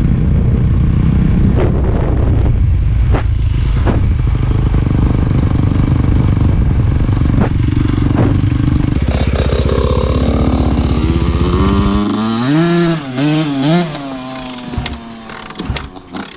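A dirt bike engine runs steadily close by and cuts out about twelve seconds in. Then a dirt bike's engine is heard revving up and down a few times, quieter.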